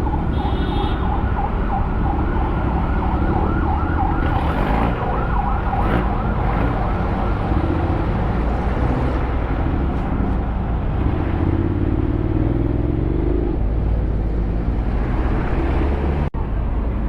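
Emergency-vehicle siren in a fast rising-and-falling yelp, about three cycles a second, for the first few seconds, with a lower wavering siren tone later on. Underneath runs the steady low riding rumble of a Honda X-ADV 750 motorcycle and wind.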